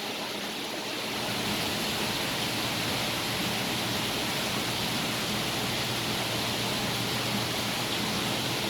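Steady rushing water from a saltwater aquarium system's pumps and water flow, with a faint low hum underneath.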